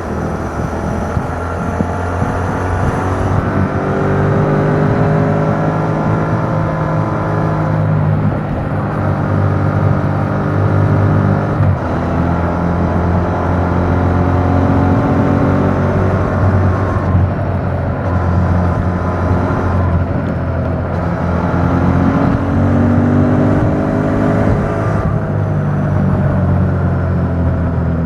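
2021 Yamaha MT-07's 689 cc parallel-twin engine through its stock exhaust, ridden under way. The pitch climbs and then drops several times as the bike accelerates and shifts gears.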